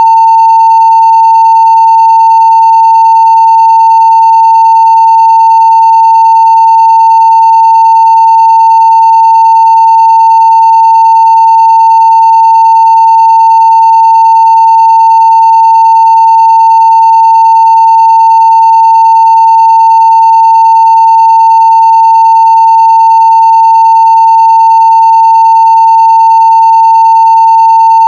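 Continuous 900 Hz sine-wave test tone at full scale (0 dB), steady and unchanging in pitch and loudness.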